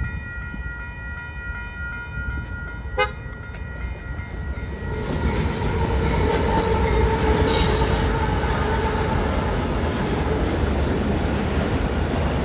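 Level-crossing warning bell ringing steadily. About five seconds in, a diesel freight locomotive arrives with a rising rumble, its horn sounding for a few seconds as it passes. The rumble of the freight cars rolling by follows.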